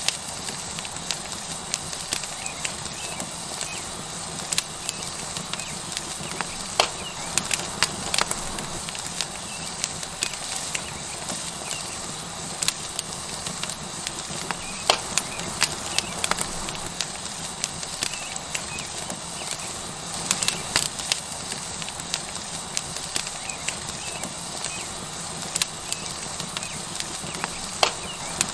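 Tomahawk steak sizzling on a hot stone over a wood fire: a steady hiss with the fire crackling, in frequent sharp, irregular pops.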